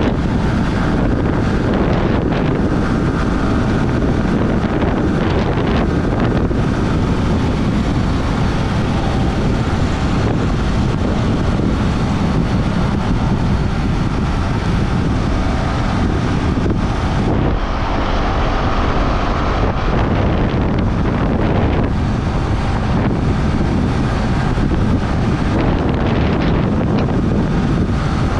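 Heavy wind buffeting the microphone as a Yamaha R15 V3's 155 cc single-cylinder engine runs at highway speed underneath, steady throughout with no clear revs or gear changes.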